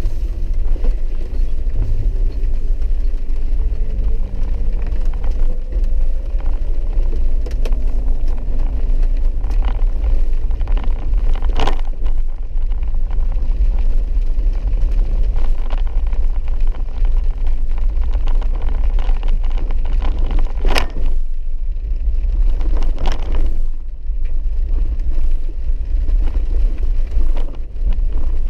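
Inside a vehicle crawling along a muddy dirt road: a low steady rumble with the engine's pitch rising over the first several seconds. A few sharp knocks come through, the loudest about twenty seconds in.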